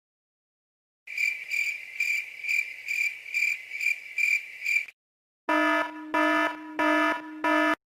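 Cricket chirping sound effect: a high chirp repeating evenly about twice a second for roughly four seconds. After a short pause, a buzzer sounds four times in even half-second blasts.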